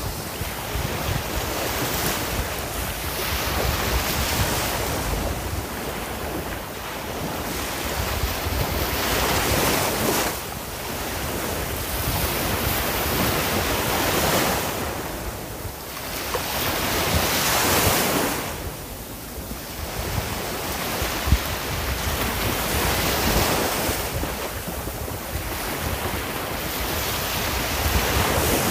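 Sea waves breaking and washing in; the surf swells and fades again every few seconds.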